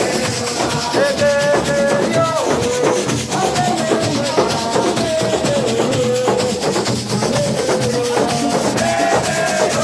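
Live band music: a lead melody moving in steps over fast, continuous shaker and drum percussion.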